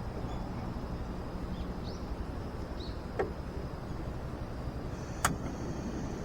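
Outdoor campsite ambience: a steady low rumble with a faint, steady high-pitched insect-like tone and a few short rising chirps, broken by two sharp clicks or snaps, about three and five seconds in, the second one the loudest.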